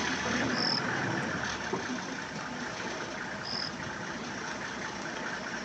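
Safari vehicle's engine idling under a steady hiss, with a short high chirp twice, about three seconds apart.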